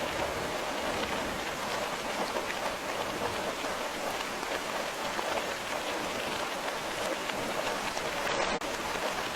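Steady, even rain falling on a surface, a dense hiss with fine scattered drop ticks.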